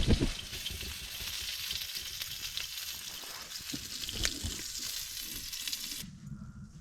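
Food sizzling in a hot frying pan: a steady hiss with scattered small pops and crackles, which cuts off about six seconds in.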